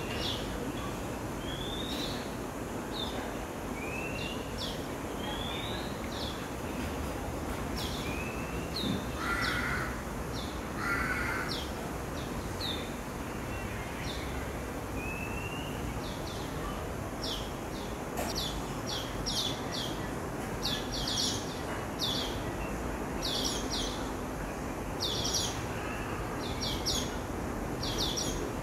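Birds calling: one repeats a short rising note every couple of seconds, two short harsher calls come about nine and eleven seconds in, and from a little past halfway a quick run of short high chirps takes over, over a steady background hiss.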